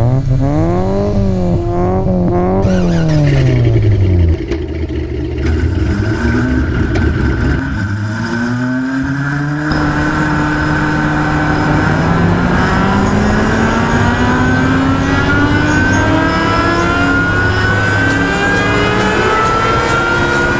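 Honda car engine revving: its pitch rises and falls over the first few seconds, then climbs slowly and steadily through the second half.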